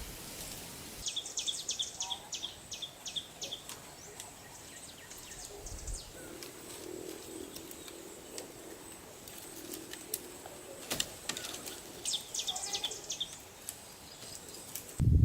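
Songbird chirping in quick runs of high, short notes, twice, over faint outdoor background noise.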